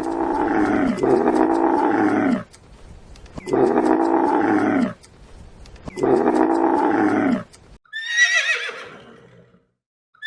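A cow mooing three times in long, drawn-out calls, then a horse whinnying with a high, shaky call that falls in pitch near the end.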